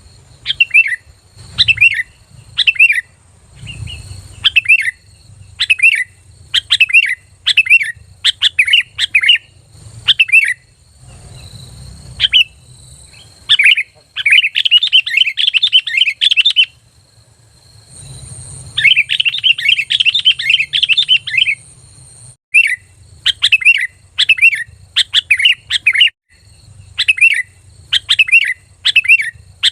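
Sooty-headed bulbul (kutilang) singing loudly: short clear whistled phrases repeated about once a second, broken in the middle by two longer rapid chattering runs of a couple of seconds each.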